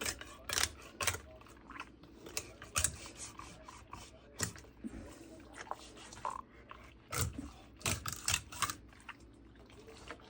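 Salmon being filleted on a countertop: a knife working through the fish and the wet fish being handled, heard as irregular wet clicks and taps with a few heavier thuds about seven and eight seconds in.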